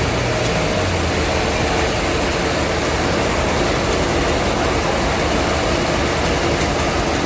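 Sawmill machinery running steadily: a constant mechanical noise over a low engine hum that drops in pitch about a second in.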